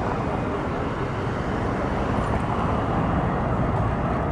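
Steady city street traffic noise: the rumble of passing cars and other vehicles.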